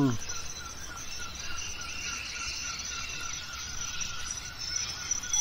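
Outdoor summer ambience: insects trilling on one steady high note, with a softer chirp repeating about three times a second and scattered faint bird-like calls.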